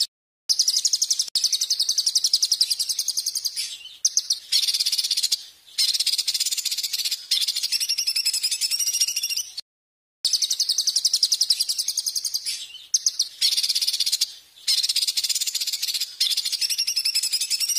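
A small songbird giving long, very rapid, high-pitched trilling chatter in phrases of one to four seconds with brief breaks. About ten seconds in it cuts to dead silence for half a second, as at an edit in the recording, then resumes.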